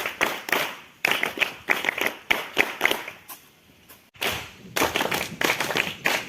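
A rapid, irregular series of sharp claps, broken by a lull about three seconds in and an abrupt cut about four seconds in.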